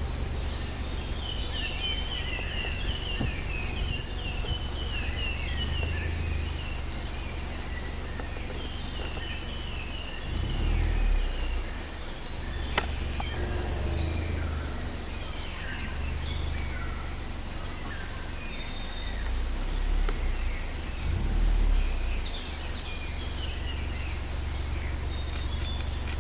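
Forest birds chirping over a steady low rumble, with a sharp click about halfway through.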